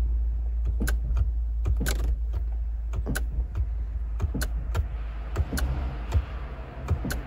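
Irregular clicking from a 2013 BMW F30 as its start button is pressed, over a steady low hum, with no cranking: the car's no-crank, no-start fault. The clicks start about a second in and come unevenly, a few a second.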